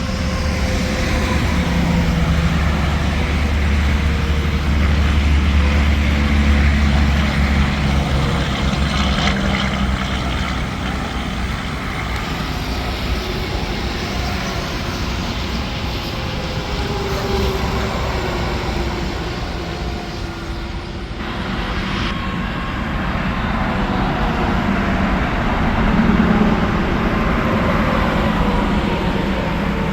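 Interstate highway traffic passing, tractor-trailers and cars with steady tyre roar and diesel engine drone, engine tones sliding down in pitch as vehicles go by. Two louder passes, one several seconds in and one near the end.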